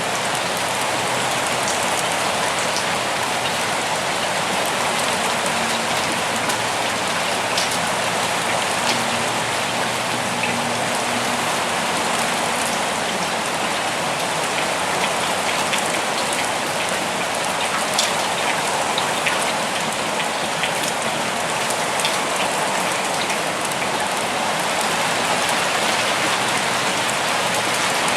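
Steady rain falling: a dense, even hiss of rain with scattered sharper drop ticks.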